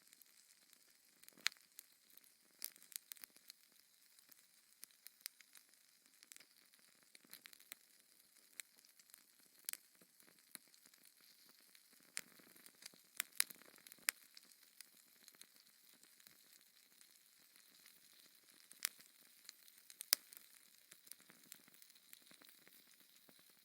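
Wood fire burning in a fireplace, crackling with irregular sharp pops and snaps over a faint steady hiss. A few pops stand out louder, about a second and a half in, around the middle and twice near the end.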